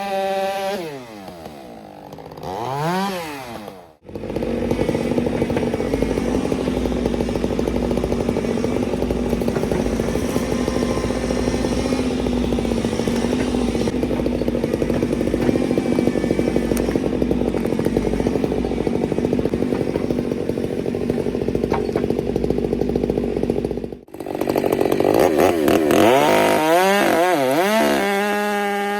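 Gas chainsaw revving up and down at first. Then, for a long stretch, it runs at steady full throttle under load while cutting through a thick tree trunk. Near the end it is revving up and down again.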